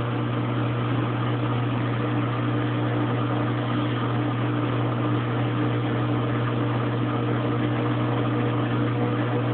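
Kenmore Oasis top-load washing machine running and going into its spin: a steady motor hum with a tone that begins to rise near the end as the tub speeds up.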